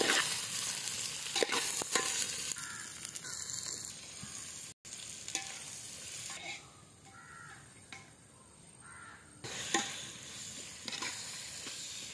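Sliced onions, green chillies and tomatoes sizzling in hot oil in a metal pot while a metal slotted spoon stirs and scrapes against the pot: sautéing the onions for biryani. The sizzle is strongest at the start, drops in the middle and picks up again later.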